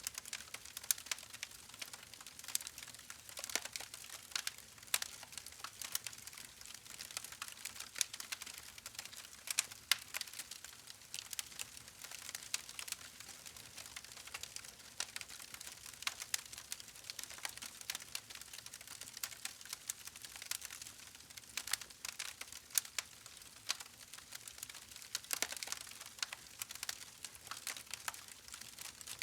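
Campfire burning with dense, irregular crackling and snapping of wood, over a faint hiss.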